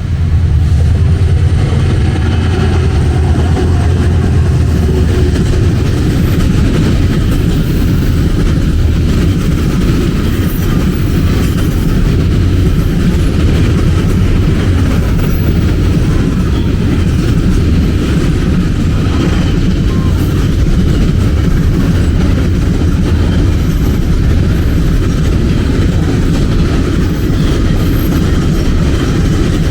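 Train passing close by: a loud, steady rumble of wheels on rail, heaviest in the first few seconds.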